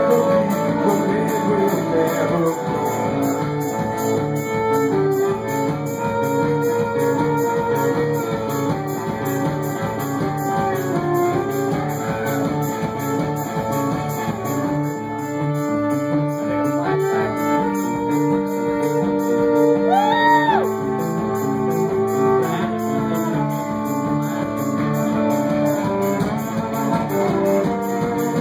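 A folk band playing live: an instrumental passage of string instruments, a violin among them, over a steady beat, with no singing.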